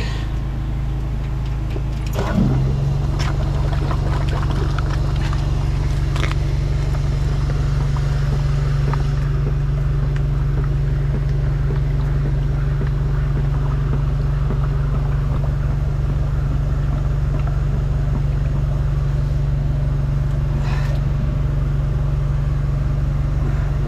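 Drain jetting machine's engine running steadily. About two seconds in it steps up louder as the jet is opened and the pump comes under load, driving the nozzle's water jets through a root-blocked drain pipe.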